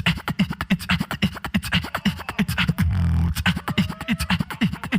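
Solo beatboxing: fast mouth-made clicks and snare hits over a deep vocal bass, with a thin tone that rises and falls about halfway through.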